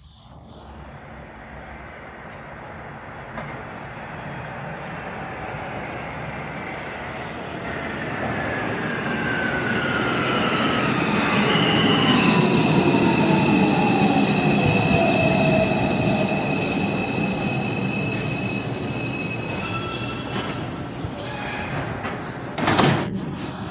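R142 subway train coming into the station, getting louder as it nears. Its traction motor whine falls steadily in pitch as it brakes, and high steady squeals come from the wheels and brakes. A short burst of air hiss sounds near the end.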